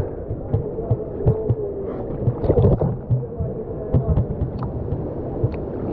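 Muffled water sloshing and uneven low thumps as swimmers move about in a waterfall pool, with scattered small splashes and clicks.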